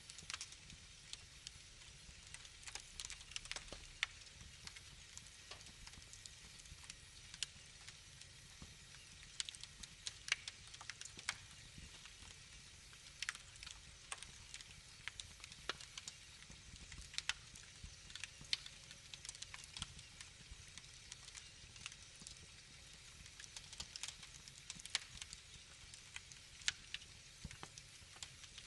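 Wood fire in a fireplace crackling: irregular sharp pops and snaps, some louder than others, over a soft steady low rumble.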